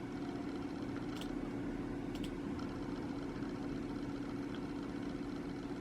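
A steady mechanical hum at one even pitch, with a couple of faint clicks about one and two seconds in.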